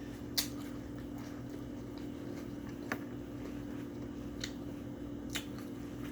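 A person chewing food close to the microphone, with a few short wet clicks from the mouth, over a steady low hum.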